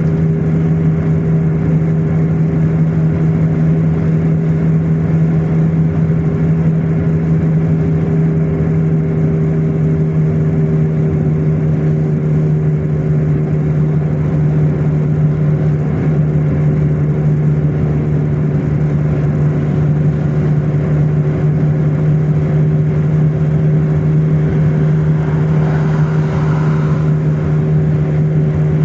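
Car driving at a steady pace: an even, low hum of engine and road noise with a constant pitch.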